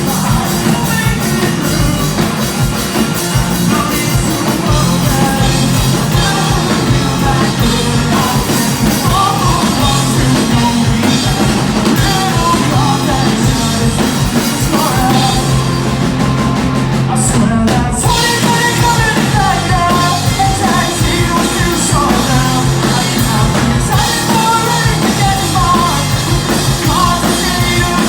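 Live rock band playing loudly, with a singer's vocals over the band.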